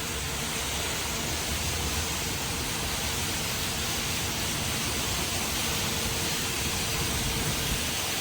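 Steady rushing hiss with a faint steady hum underneath, from a touchless automatic car wash bay waiting to start its cycle.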